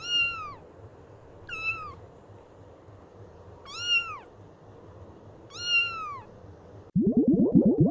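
A kitten meowing four times, each high meow rising then falling in pitch. About a second before the end, a loud, rapid, low warbling sound cuts in abruptly.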